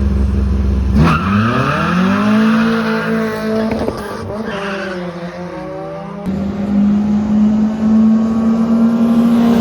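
Drag-racing car engines revving hard: the engine note climbs sharply about a second in and is held at high revs, with tyre squeal over it. There is a sudden change about six seconds in.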